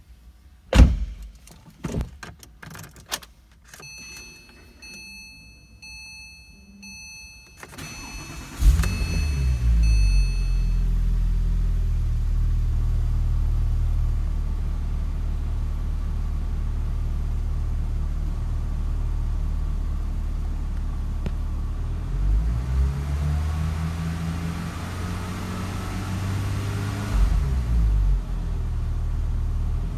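Porsche 911 Turbo (997) twin-turbo flat-six cold-starting: a few clicks and a faint high steady tone, then the engine cranks and catches about nine seconds in and settles into a steady idle. Near the end the engine note rises and falls a couple of times.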